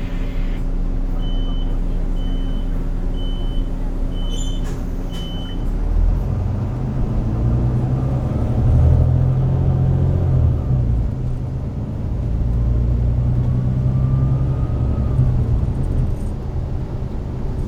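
Volvo D9B-310 diesel engine of a Volvo B9TL bus idling while five short high beeps sound about a second apart. About six seconds in the engine note rises sharply and stays strong as the bus pulls away and accelerates through its Voith automatic gearbox.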